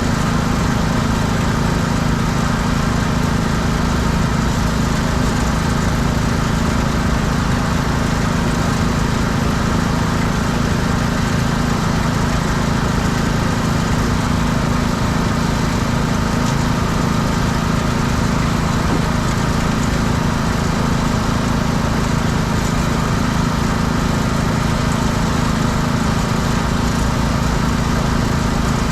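Pressure washer's small engine running steadily at constant speed.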